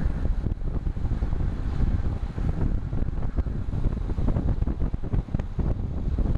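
Wind buffeting the microphone of a camera carried on a moving road bike: a dense low rumble that flutters rapidly and unevenly.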